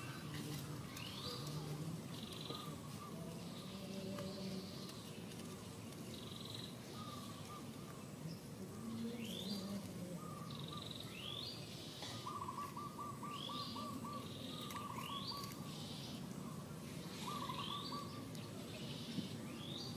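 Birds calling outdoors: short rising calls repeat every second or two, with bursts of rapid repeated notes now and then.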